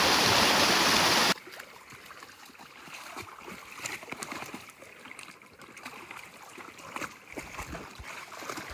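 Rain-swollen waterfall rushing loudly, cutting off abruptly about a second and a half in. Then a fainter stream trickling and gurgling, with small irregular splashes.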